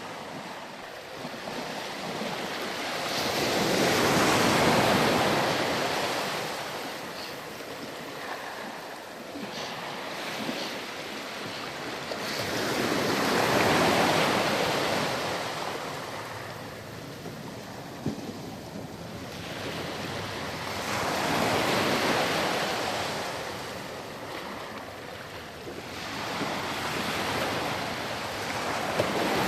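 Ocean surf breaking and washing on a beach, a swell of rushing noise rising and falling about every eight to nine seconds: four waves.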